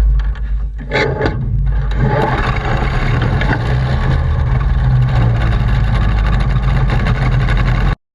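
Ultralight aircraft's engine and propeller running with a steady drone, cutting off abruptly near the end.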